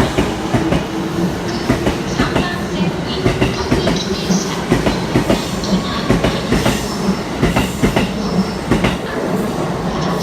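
JR E233 series electric commuter train pulling out and running past, its wheels clacking over the rail joints again and again, roughly two clacks a second.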